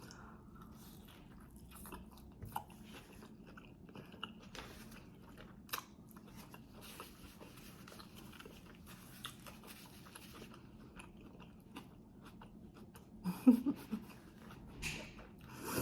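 Close-miked chewing and biting of birria tacos: a run of small wet mouth clicks and soft crunches.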